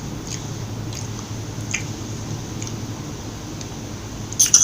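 Wet, squishy mouth sounds of someone eating a melting McDonald's soft-serve sundae, with soft smacks about once a second and a louder cluster of smacks near the end.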